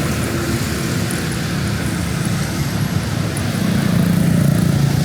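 Road traffic: a steady hum of passing vehicles, with one vehicle's engine growing louder about three and a half seconds in as it passes close by.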